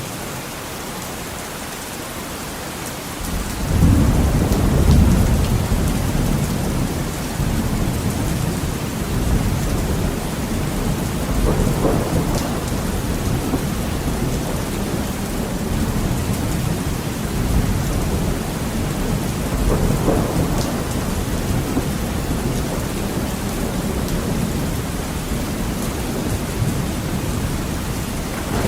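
Heavy rain pattering steadily on a window, with thunder: a deep rumble breaks in about three and a half seconds in and keeps rolling, swelling again twice later.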